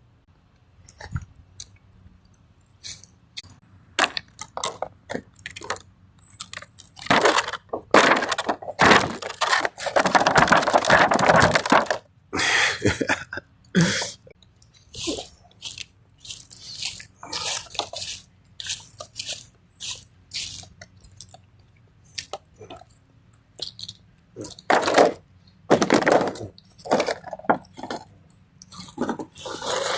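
Squirrel and bird feed being handled and scattered: irregular crunches, clicks and rattles, with a longer rushing stretch about ten seconds in.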